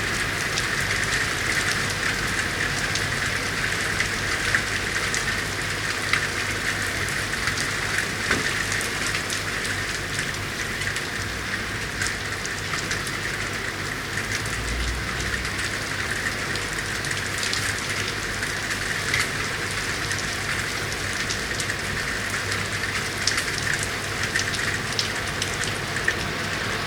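Steady rain falling on city street surfaces, with scattered sharp drips and taps throughout.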